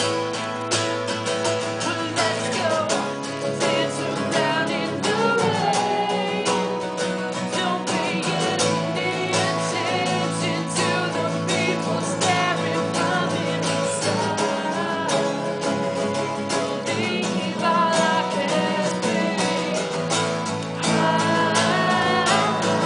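Acoustic guitar strummed with a man singing along, live and unamplified-sounding, in a solo acoustic performance.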